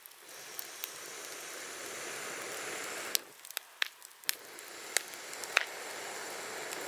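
Wood campfire crackling, with sharp pops and cracks. Two long rushing whooshes of air run through the flames, each building over about three seconds, with a short break between them.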